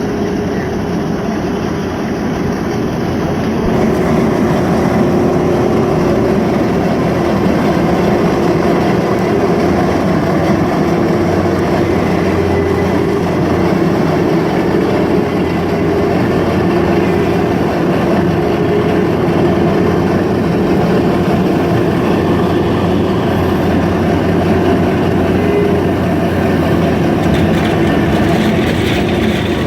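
CASE SR270 skid steer loader running with its crusher attachment, a loud steady machine din. It grows louder about four seconds in and then holds steady.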